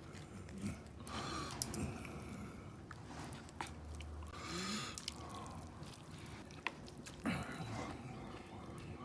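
Someone eating instant salt ramen cooked in a mess tin: chewing close to the microphone, with a few short louder noisy moments and some sharp clicks.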